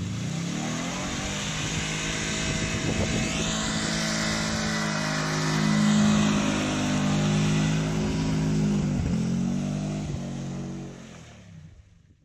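Subaru Impreza wagon's flat-four engine revving hard as the car powers through deep mud and passes close by. It is loudest about halfway, dips in pitch a few seconds later, then fades as the car drives away.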